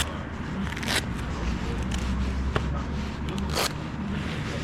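BMW K1600GTL's inline-six engine running at low revs through a Hattech aftermarket muffler, a steady low hum, with a few short clicks and scrapes of handling noise near the microphone.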